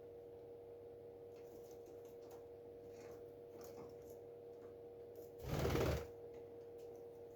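A parrot shuffling about in its nest box, with faint scratching and clicking of claws and beak on the box and bedding, and one louder rustling thump about five and a half seconds in. A steady electrical hum runs underneath.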